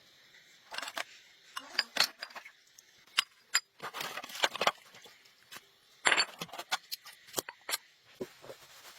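Irregular sharp metallic clinks and clatters, a dozen or so knocks of differing loudness scattered through the seconds with short gaps between them.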